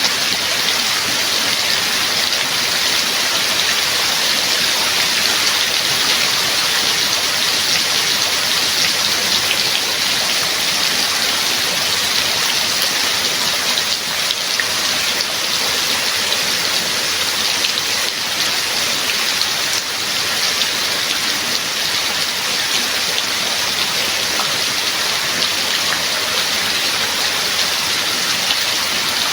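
Steady rain falling: a dense, even hiss with scattered individual drop hits, unchanging throughout.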